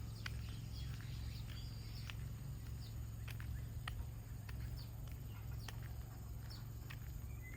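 Footsteps on a path, irregular sharp steps, with short high bird chirps scattered through and a steady low rumble underneath.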